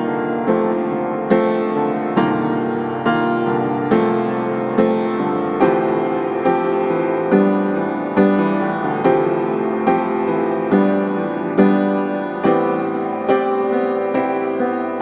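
Background piano music, gentle and unhurried, with notes or chords struck about once a second and left to ring.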